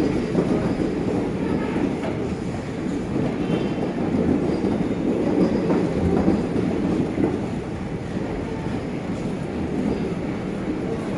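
Passenger coaches of a departing Indian express train rolling past, a steady rumble of wheels on the rails.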